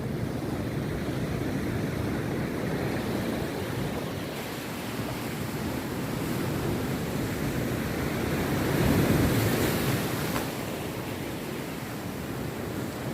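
Rough surf breaking steadily on a beach, a continuous rushing wash of waves that swells loudest about nine seconds in as a bigger wave breaks.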